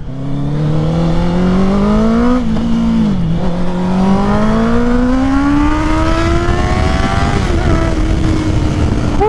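Honda CBR650R's inline-four engine through a loud aftermarket full exhaust, accelerating. The revs climb for about two seconds, drop on a gear change, then climb steadily for several seconds before levelling off and easing near the end.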